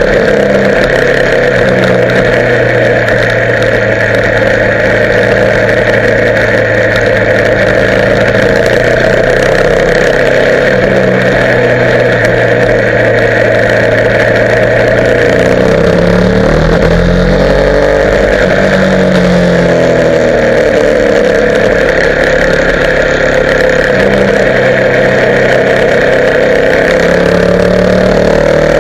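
Motorcycle engine running steadily under way, its pitch dipping and then rising again a little past halfway through.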